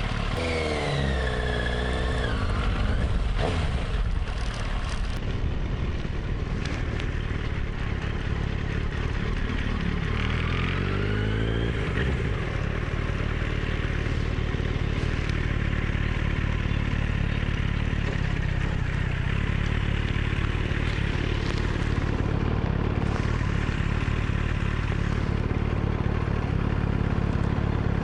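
Yamaha XJR1300 inline-four motorcycle running at low speed, its engine note sweeping up and down near the start and again about ten seconds in as it is revved and shifts, then holding steady.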